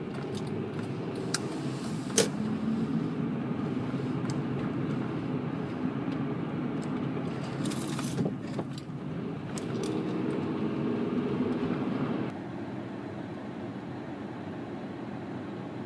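Steady road and engine noise inside a moving vehicle's cabin, broken by a few sharp clicks or knocks, and a little quieter about twelve seconds in.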